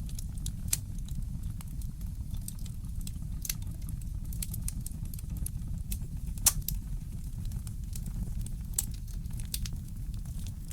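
Wood fire in a fireplace crackling, with irregular sharp pops and snaps, the loudest about six and a half seconds in, over a steady low rumble.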